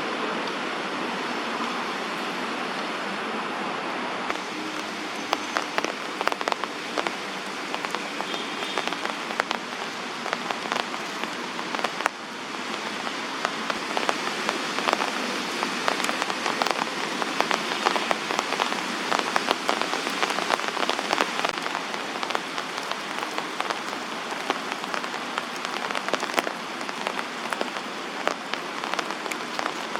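Steady rain, with many individual drops striking a surface close by from about four seconds in.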